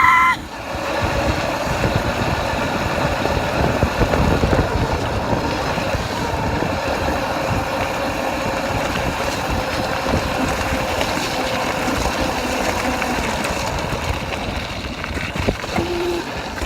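Dirt bike engine running at a steady speed.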